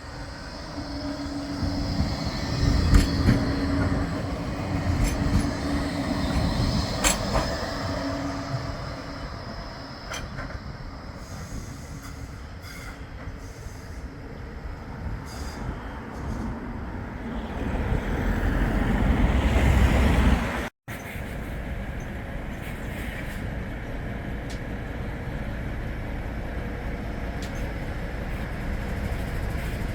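Bombardier Flexity 2 light-rail tram running on the track, with a steady hum and a few sharp clicks in the first several seconds. Later the tram grows louder to a peak, the sound cuts off abruptly, and a steadier, quieter running noise follows.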